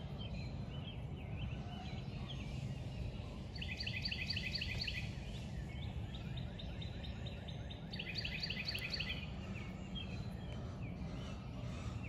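A songbird singing a quick trill of rapidly repeated high notes, each lasting just over a second and coming about every four seconds, with fainter chirps from other birds. Under it runs a steady low outdoor rumble.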